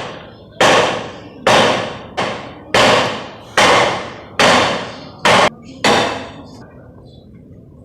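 Hammer striking metal: about eight heavy blows, roughly a second apart, each ringing out briefly, stopping about six seconds in.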